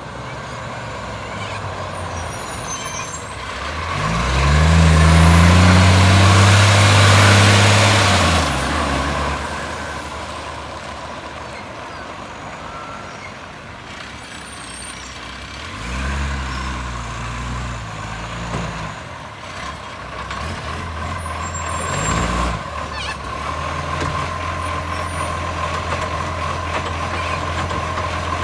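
Garbage truck's diesel engine revving hard for several seconds from about four seconds in, with the loud raspy blast of a leaking exhaust, then dropping back to idle; shorter revs follow twice later on.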